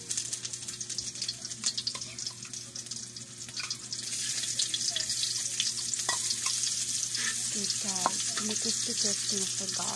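Food frying in hot oil in a wok, sizzling steadily while a metal spatula stirs and taps against the pan. The sizzle gets louder about four seconds in.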